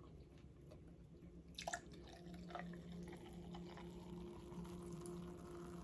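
Quiet, wet chewing and mouth clicks of someone eating nachos, with a few sharper crunchy clicks a little under two seconds in, over a faint steady low hum.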